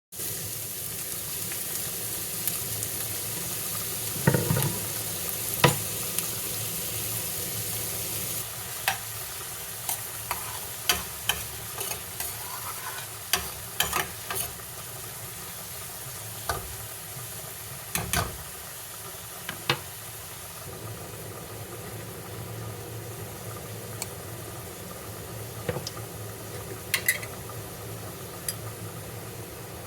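Food sizzling in a pan with a steady hiss, with scattered clinks and knocks of a utensil against the pan. The sizzle turns quieter about eight seconds in.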